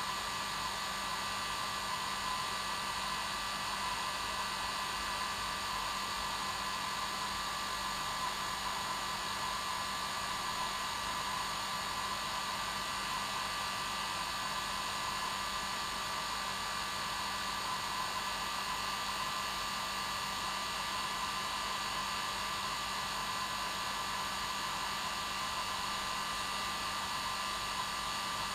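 Hair dryer running steadily with an even airy rush and a steady motor whine.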